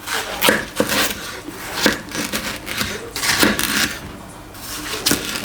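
Knife cutting through a seedless watermelon on a board: a series of irregular sharp cracks and scrapes as the blade goes through rind and flesh.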